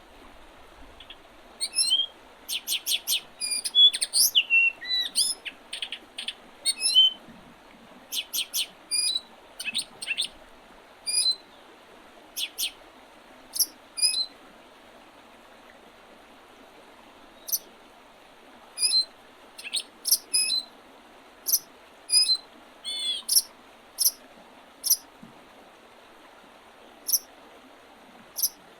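Small songbirds calling in early spring: many short, sharp chirps and brief whistled notes, busiest in the first half and then coming every second or two, over a steady faint background hiss.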